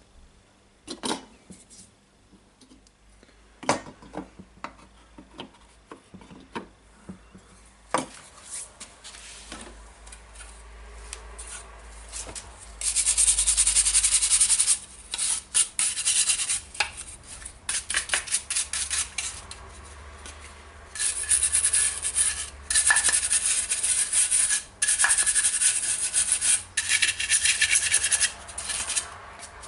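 Scattered clicks and knocks of parts being handled, then from about 13 seconds in, long spells of fast, loud rubbing strokes on the radio's housing, broken by short pauses.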